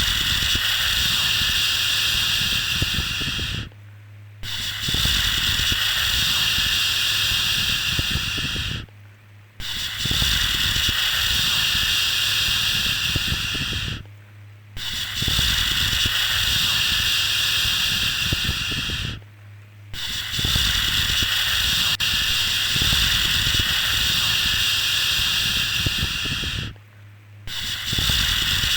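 A long, steady 'shhh' shushing sound repeated over and over. Each shush lasts about four to seven seconds, with a short pause of under a second between them.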